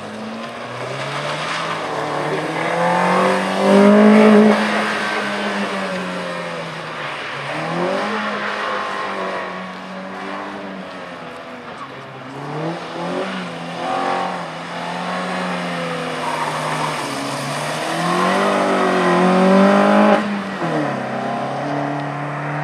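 Rally car engine driven hard, its note climbing and dropping back several times as the car accelerates, shifts and slows through a cone course; loudest about four seconds in and again near the end.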